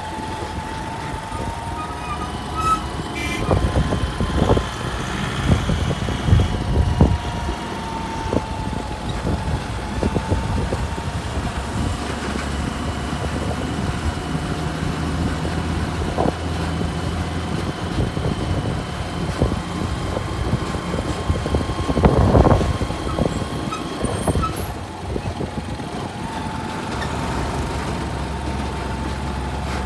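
A truck engine running steadily with a high whine over its rumble, and bursts of knocking about four to seven seconds in and again around twenty-two seconds in.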